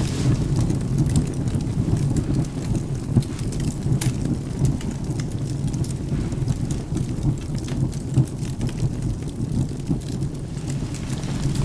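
Wood fire crackling with scattered sharp pops over a steady bed of rain and a continuous low thunder rumble.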